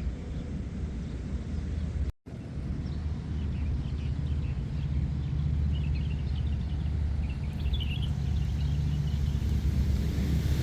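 Outdoor ambience: a steady low rumble, with faint birds chirping that grow more frequent from about three seconds in. The sound cuts out completely for a moment about two seconds in.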